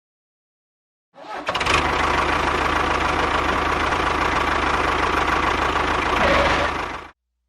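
A motor running steadily, coming in about a second in and cutting off abruptly shortly before the end.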